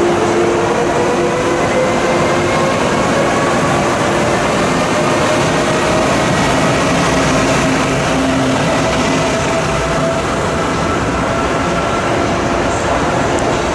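ZSSK electric locomotive and its passenger coaches running past along a station platform: a steady rumble of wheels on rail, with the locomotive's electric whine slowly rising in pitch.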